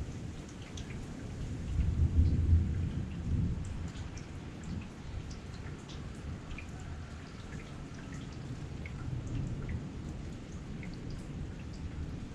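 Heavy rain falling steadily, with single drops ticking close by. A low rumble of thunder swells about two seconds in and fades over the next couple of seconds.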